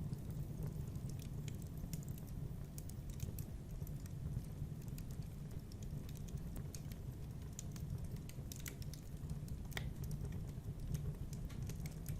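Wood fire burning in a fireplace: a steady low rumble with irregular small crackles and pops, and a louder pop about ten seconds in.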